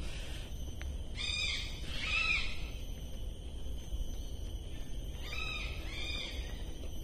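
A bird calling with harsh, arched notes: two about a second in and two more about five seconds in, over a steady low rumble.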